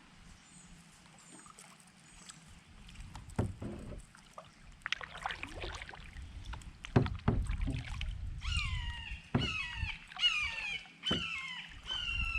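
Knocks and handling noises on a fishing kayak. About two-thirds of the way in, a run of high squeaky calls begins, roughly one a second, each falling in pitch.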